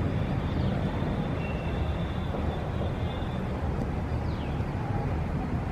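Steady city traffic rumble. A couple of short, high, falling bird chirps sound over it, the first about four seconds in.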